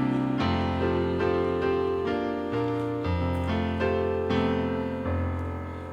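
Piano playing slow chords over held bass notes, fading away near the end.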